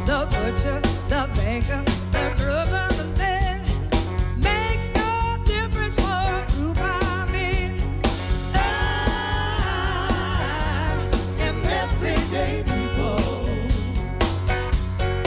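Live blues-rock band playing an instrumental passage: a steady drum and bass groove under a lead line that slides and wavers in pitch.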